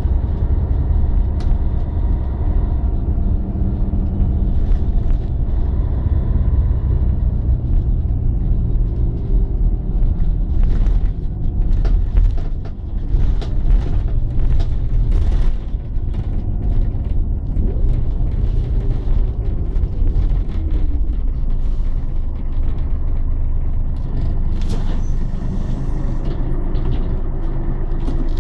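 Scania L113 CLL city bus's diesel engine running with a steady low rumble, with several short hisses of compressed air from the air brakes, most of them around the middle and one more near the end.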